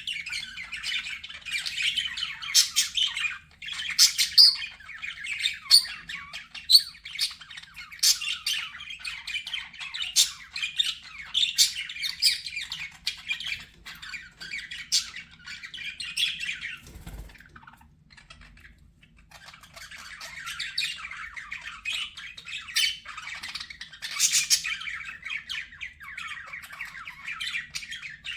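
Budgerigars chattering: a dense run of quick chirps, warbles and sharp squawks, with a lull of about two seconds about two-thirds through before the chatter resumes.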